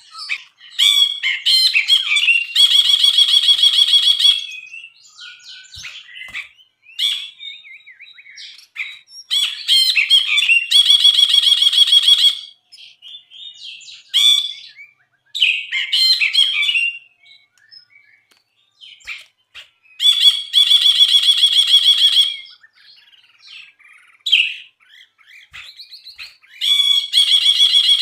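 Brinji bulbul singing: quick varied chirps and whistles broken four times by a long buzzy, rattling phrase of about two seconds.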